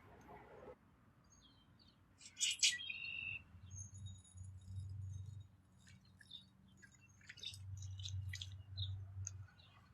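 Small birds chirping and calling in short scattered notes, with a louder burst of calls about two and a half seconds in. A low hum comes in twice, near the middle and near the end.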